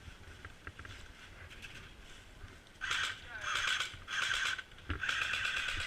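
Airsoft electric gun firing on full auto in four bursts, rapid clicks over a gearbox whine, starting about three seconds in; the last burst is the longest.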